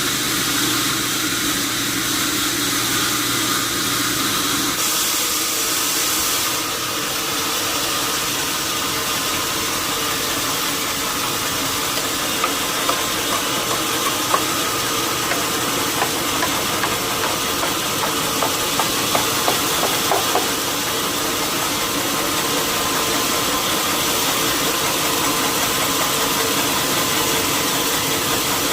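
Sawmill machinery running steadily, an engine-like hum under a hiss that brightens for a moment about five seconds in. A string of short sharp clicks or knocks comes midway through.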